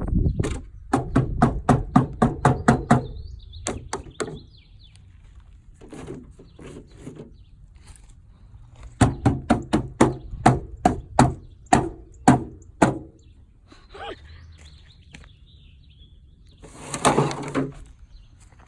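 Rapid runs of hard knocks, several a second, in two bursts, with a faint, high, wavering squeak between them and a short scraping burst near the end.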